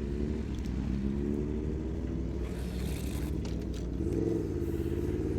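Superbike engine accelerating hard, its pitch climbing, dropping briefly at a gear change about four seconds in, then climbing again.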